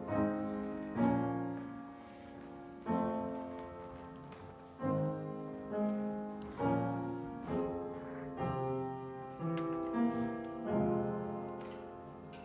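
Slow, quiet piano music: chords struck about once every second or two, each left to ring and fade.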